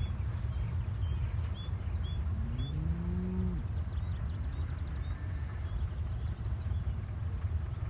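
A cow mooing: one low call about two seconds in that rises and then holds for about a second, followed by a fainter call. A steady low rumble runs underneath.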